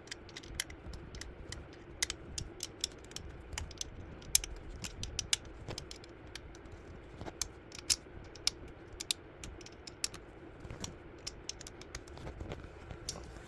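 Quick, irregular light clicks and taps, several a second: a hex key working a hex screw on the mini trampoline's handlebar, a screw that will not seat completely.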